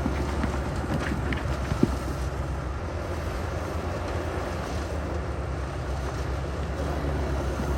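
Heavy diesel engine of construction equipment running steadily at a low rumble, with a single sharp knock about two seconds in.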